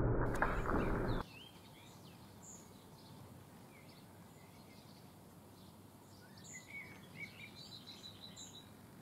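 A loud rushing noise with a few sharp clicks, the smoky aftermath of the stage banger's blast, cuts off abruptly about a second in. After it, songbirds chirp here and there over quiet outdoor background, with a quick trill near the end.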